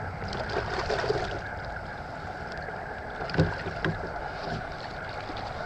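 Steady wind and water noise from a kayak on open water, with two short knocks about three and a half and four seconds in.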